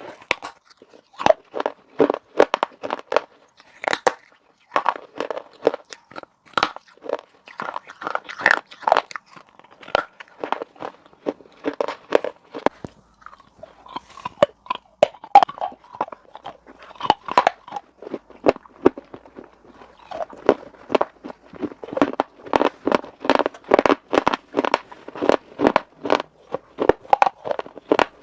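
A person biting and chewing pieces of baked clay pot: sharp, dry crunches in quick runs, with a short lull about halfway through.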